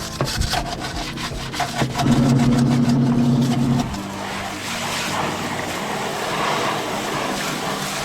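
A brush scrubbing a washing machine part in rapid back-and-forth strokes for about four seconds, with a steady hum over it in the middle. The strokes then give way to a steady hiss.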